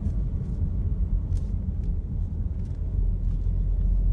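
Steady low rumble of road and engine noise inside a moving vehicle's cabin, with a few faint ticks.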